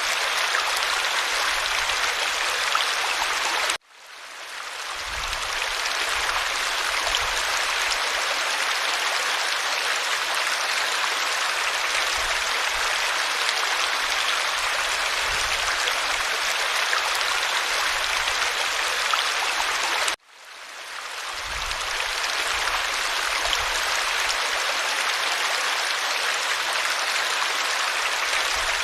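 Creek water running over stones, a steady rushing. It cuts out suddenly twice and fades back in over a second or two each time, like the seam of a looped recording.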